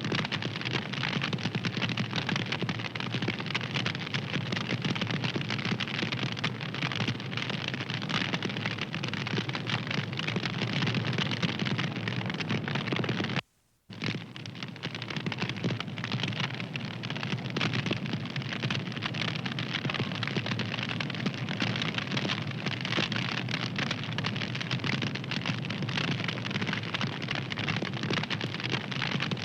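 Wood fire crackling steadily, a dense run of small pops and snaps over a low hiss. It cuts out for about half a second near the middle, then carries on.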